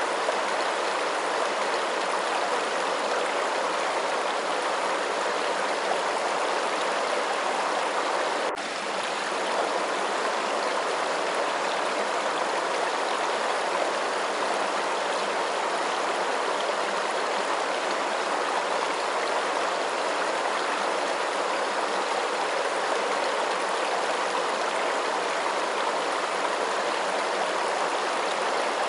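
Steady rush of flowing water, even and unbroken, with a brief dip in level about eight and a half seconds in.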